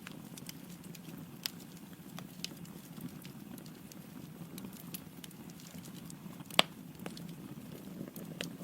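Wood logs burning in a fireplace, with a steady low rush of flame and scattered sharp crackles, and one loud pop about two thirds of the way through.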